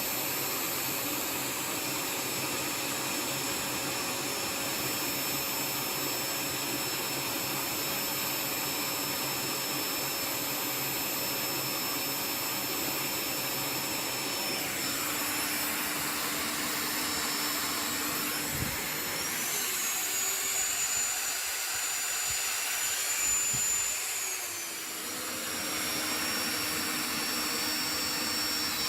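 A 1600 W vacuum cleaner and a 780 W electric drill running together off a 12 V to 220 V pure-sine inverter, a steady whir. A little past the middle the pitch of a whine steps up, holds for a few seconds, then drops back as the level dips briefly.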